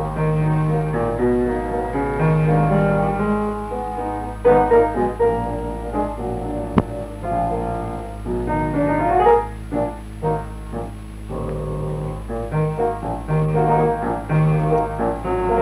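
Film score played mainly on piano, a run of changing notes over a steady low hum, with a single sharp click about seven seconds in.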